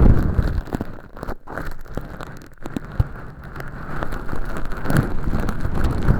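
An ear pick scraping inside a silicone ear model, crackling as it peels away thin, flaky fake earwax. The dense crackle eases off about a second in and builds back up near the end, with one sharp tick about three seconds in.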